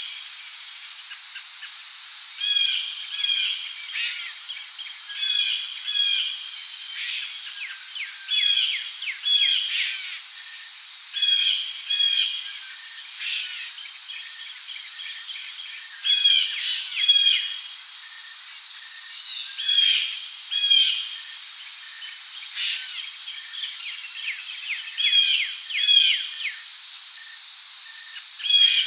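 Rainforest ambience: crickets keep up a steady high drone while birds give short chirping calls in little runs, recurring every second or two.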